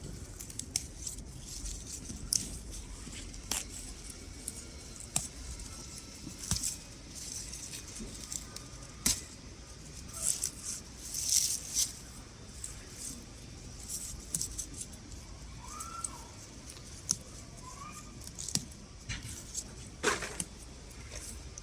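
Salad greens being harvested by hand: scattered crisp clicks as stems are cut, with short rustles of leaves, busiest about halfway through.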